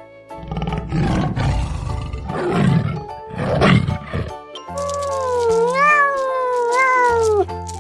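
An animal making several rough, low calls in the first four seconds, then one long wavering call that rises and falls, over background music.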